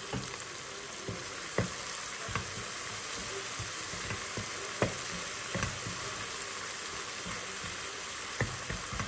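Spice masala sizzling steadily in hot oil in a pan while being stirred, with a utensil knocking against the pan every second or so.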